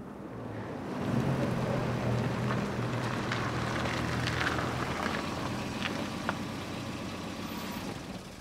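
A car engine running slowly as the car rolls into a driveway and parks, with a few small clicks along the way. The engine sound stops near the end.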